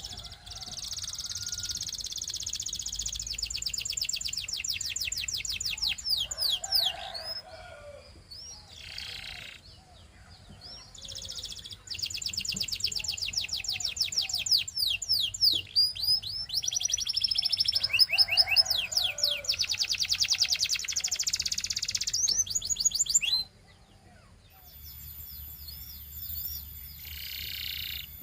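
Male canary singing in long, high trilling phrases of rapidly repeated notes. There are two long song bouts, the second starting about halfway in, with a few seconds of scattered softer calls between them and after.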